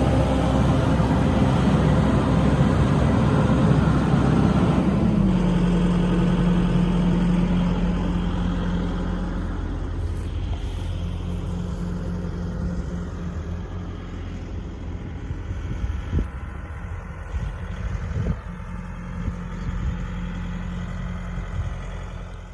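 SANY SY135C excavator's diesel engine and hydraulics working under load, then about five seconds in settling to a steady, quieter running hum, with two brief knocks in the second half.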